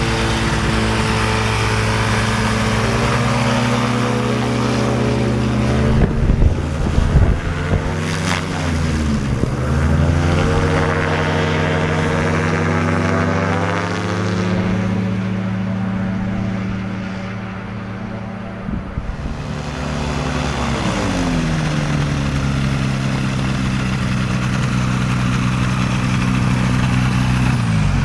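Homemade aircraft's propeller engine running steadily, with the revs eased down and back up about a third of the way in, eased down again about three quarters of the way through, and falling away right at the end.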